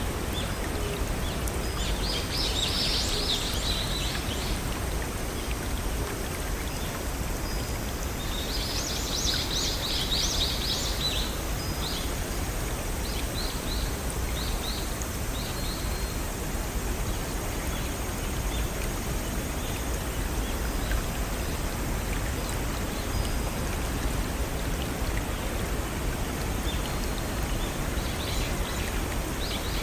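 Steady rush of flowing water from a small forest stream or waterfall, with birds chirping above it: two busy bursts of chirping at about two and nine seconds in, a few short chirps just after, and more near the end.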